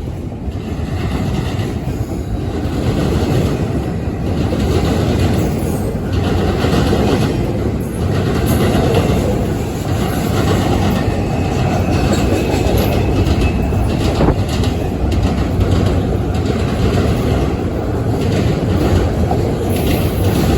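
Norfolk Southern train cars rolling past on steel rails: a steady rumble with irregular clacks from the wheels and a faint high wheel squeal now and then.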